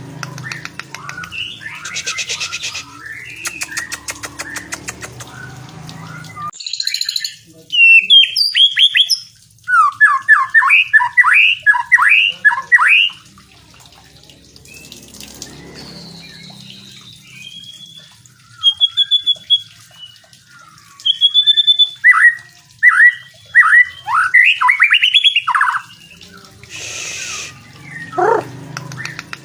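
Songbird singing a varied masteran song: a rapid run of sharp downward-sweeping notes, then clear whistles and another run of sweeping notes, with hissy, buzzy passages at the start and near the end.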